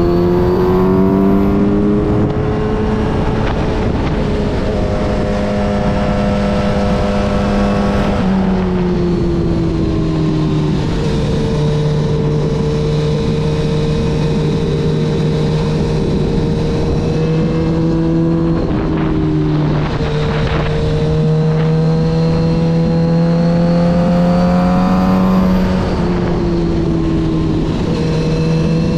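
Kawasaki Z900RS inline-four running through a full Yoshimura exhaust under way. The revs climb steadily and drop sharply about three times, at gear changes, over a steady rush of wind.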